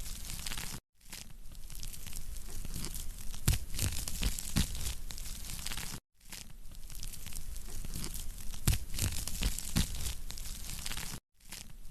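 Wood fire crackling in a fireplace, a steady hiss dotted with frequent sharp pops and snaps. The sound drops out abruptly for a moment three times.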